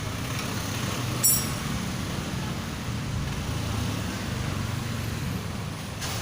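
Steady low rumble of vehicles, with one sharp metallic clink, like a steel tool or part being set down, about a second in.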